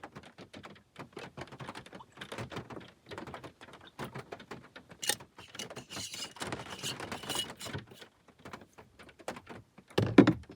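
Rain pattering as many irregular drop ticks, with one louder thump near the end.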